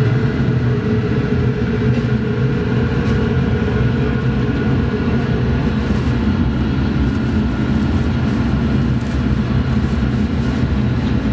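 A machine or engine running steadily with a constant low drone and a few held tones.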